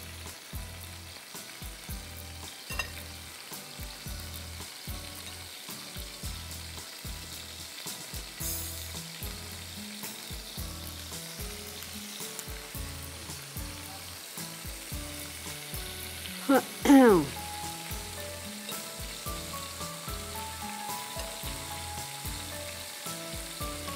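Marinated chicken tikka skewers sizzling steadily as they shallow-fry in oil in a pan. About 17 seconds in, a brief loud sound slides down in pitch.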